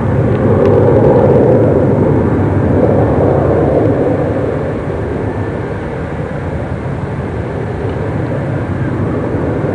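Jet engine noise from a Boeing 747-300 at takeoff power, a broad rushing rumble that swells about a second in and eases off after about four seconds.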